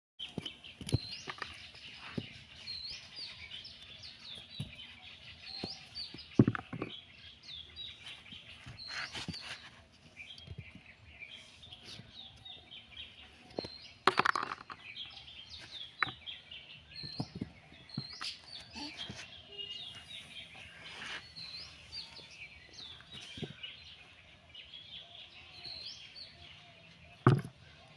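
Small birds chirping over and over in short calls, with several sharp knocks, the loudest about a quarter of the way in, near the middle and near the end.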